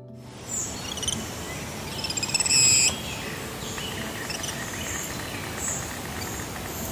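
Birds chirping and calling over a steady outdoor hiss, with a louder run of quick chirps about two and a half seconds in.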